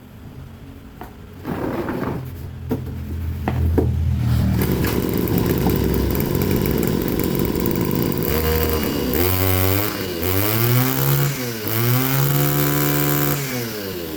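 Butane-fuelled brush cutter engine: a few clicks, then the engine comes in about a second and a half in and runs. From about eight seconds in it is revved several times, its pitch rising and falling with the throttle.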